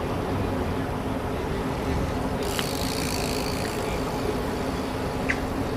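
Steady background rumble with a low hum, the kind of sound distant traffic or wind makes, with two faint clicks, one midway and one near the end.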